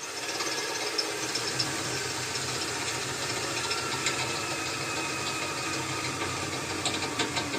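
Cordless battery drill running steadily under load, drilling, with a low hum and a faint high whine. It cuts out near the end as its battery goes flat.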